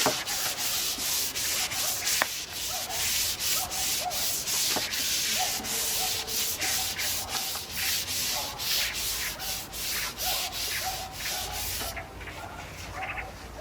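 Brush bristles swishing back and forth over larch planks as oil is worked in, about two strokes a second, going much quieter near the end.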